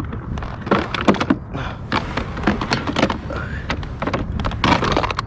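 Gear being handled on a plastic fishing kayak: a busy run of knocks, clicks and thunks.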